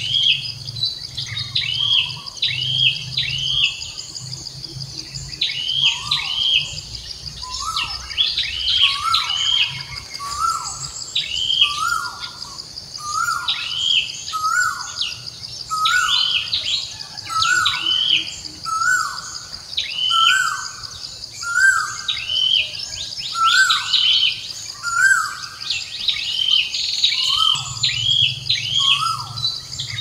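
Birds chirping over and over, about one call a second, each a short high note with a lower note, over a steady high-pitched buzz.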